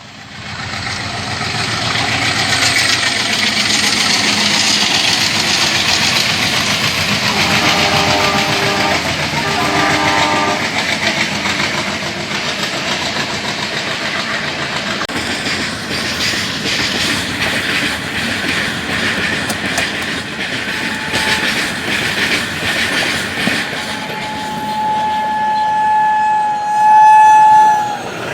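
Indian Railways express train running past with steady rail noise and wheels clacking over rail joints. A locomotive horn sounds in two short blasts, then one long, loud blast near the end.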